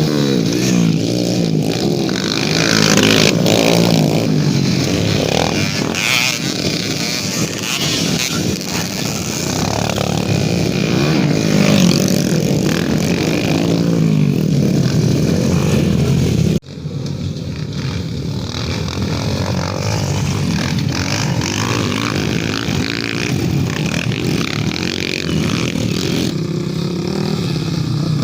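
Off-road trail motorcycle engines revving, their pitch rising and falling again and again. The sound cuts off abruptly about two-thirds of the way through and picks up again slightly quieter.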